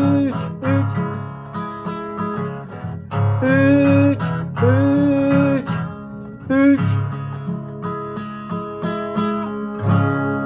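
Acoustic guitar strumming with a singing voice holding a few long notes in the first half. It ends on a final strummed chord that rings out.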